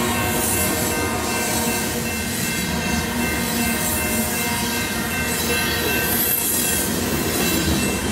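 Freight train of covered hopper cars rolling past: a loud, steady rumble of steel wheels on rail, with a thin wheel squeal held over it.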